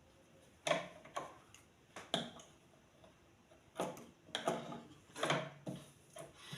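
Irregular clicks and knocks from handling a manual sewing machine, in small clusters rather than the steady run of sewing.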